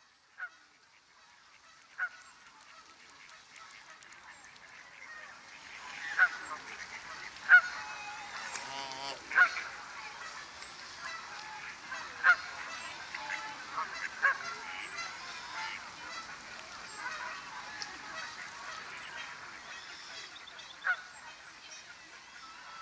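Birds honking: about eight short, sharp calls at irregular intervals, over a background of fainter bird chatter that swells in over the first few seconds.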